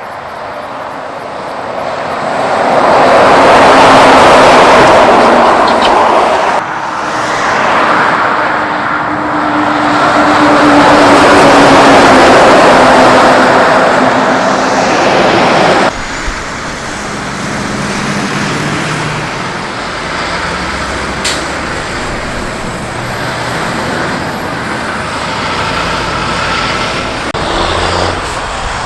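Heavy Mack trucks driving past on a highway, tyre and engine noise swelling loud and then cutting off suddenly, twice. After that a truck engine runs more quietly with a steady low hum.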